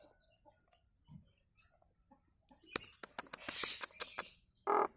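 Nias hill myna calling: a fast run of faint high twitters in the first two seconds, then, after a short pause, a burst of sharp, loud clicks and whistles from about two and a half seconds in.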